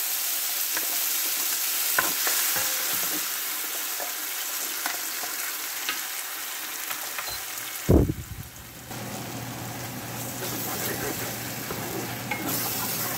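Ground onion, cashew and coriander paste frying in hot ghee and oil in a frying pan, sizzling while a wooden spatula scrapes and clicks through it. There is one loud knock about eight seconds in, and a low steady hum runs after it.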